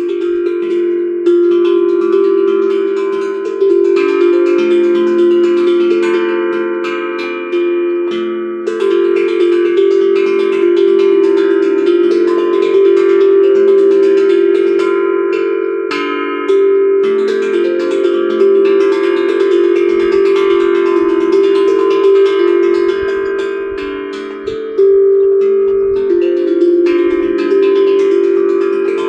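Steel tongue drum (glucophone) played by hand: struck metal notes ring long and overlap one another in a slow melody.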